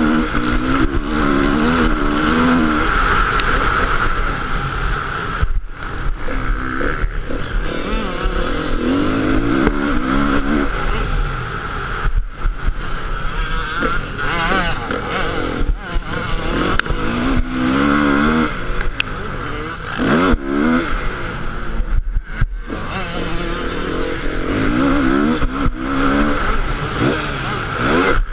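Motocross dirt bike engine revving hard and rising and falling through the gears, with the throttle snapped shut briefly about three times.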